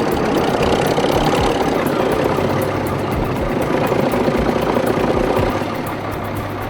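Diesel engine of a 1955 Fowler shunter locomotive running with a steady, even beat after being brought back to life following more than ten years out of use.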